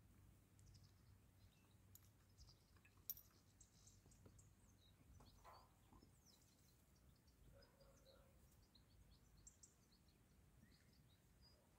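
Near silence, with a few faint, high bird chirps.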